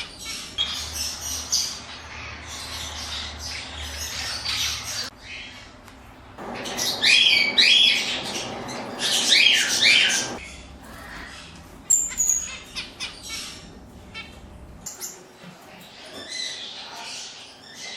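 Many caged birds calling and chirping together, with a louder stretch of harsh squawking calls in the middle and a few short high whistles.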